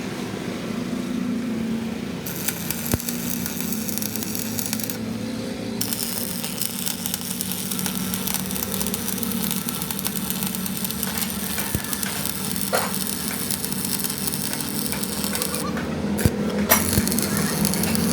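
A steady mechanical hum with scattered metallic clicks and knocks, more frequent near the end.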